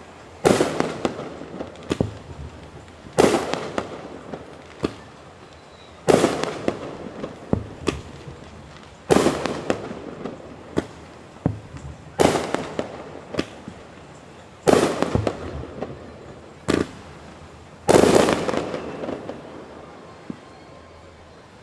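Fireworks going off: seven heavy booms roughly every three seconds, each trailing a rumble that dies away, with smaller single cracks in between. The loudest boom comes near the end, then the bursts stop.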